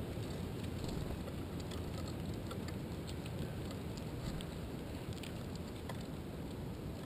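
Wind rumbling on an uncased GoPro's microphone, with scattered light ticks and taps.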